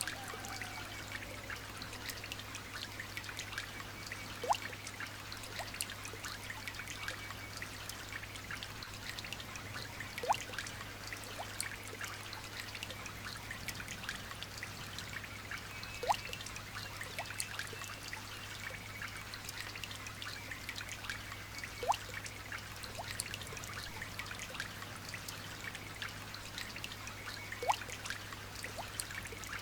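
Light rain dripping and trickling in a steady patter. A louder single drip plinks about every six seconds. A steady low hum runs underneath.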